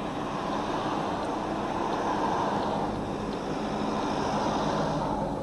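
Steady road and engine noise heard from inside a moving car, with a low engine hum under the tyre and wind noise.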